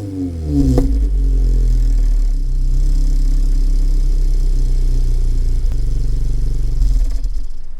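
Toyota GR86's 2.4-litre flat-four boxer engine breathing through an HKS exhaust manifold and Kakimoto Class KR muffler: the revs fall back from a blip in the first second, then it idles steadily, the sound dropping away near the end.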